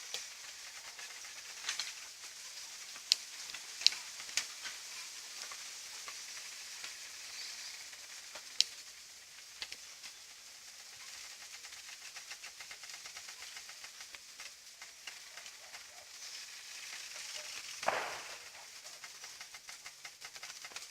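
Campfire kindling of dry straw and twigs catching alight: a steady hiss with a few sharp crackles and pops, and a brief louder rush near the end.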